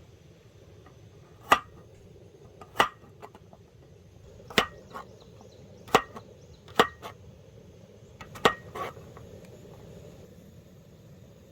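Six sharp knocks, irregularly spaced a second or two apart, several of them leaving a brief ring.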